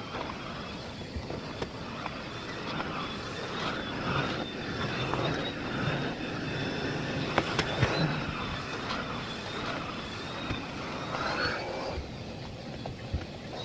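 Miele Blizzard CX1 bagless cyclonic vacuum cleaner running, with a steady high motor whine that wavers a little in pitch as the floor head is worked about, and scattered sharp clicks and knocks.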